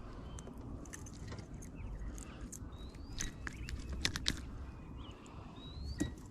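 Outdoor ambience with short rising bird chirps twice and scattered light clicks and taps, over a low steady rumble.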